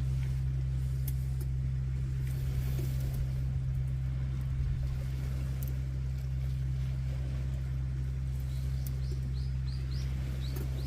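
A steady low hum, with scattered faint crackles from a campfire; a small bird chirps several times in quick succession near the end.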